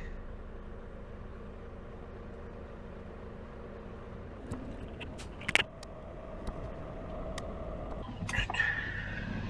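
Big-rig truck engine idling with a low, steady rumble, with a few sharp clicks about five seconds in and a few small knocks near the end.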